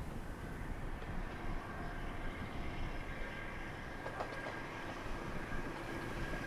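Diesel railcar running at a station, a steady low rumble with a faint high whine and a few light clicks, with strong wind buffeting the microphone.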